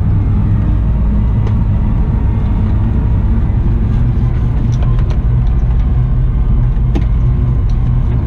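Caterpillar 972M XE wheel loader's diesel engine running steadily, a constant low drone, with a few light clicks.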